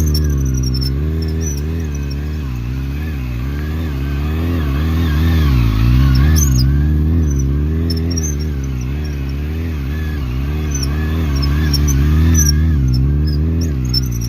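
Kawasaki motorcycle engine running at low revs, its pitch rising and falling gently and repeatedly as the throttle is feathered, with short high chirps scattered over it.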